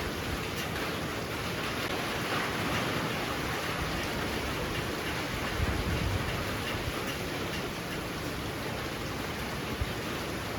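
Heavy rain falling steadily, a dense even hiss, with a few low gusty thumps about halfway through.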